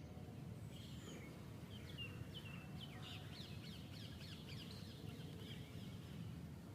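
Faint bird chirping: a run of quick, short, downward-sweeping chirps, thickest in the middle, over a steady low background noise.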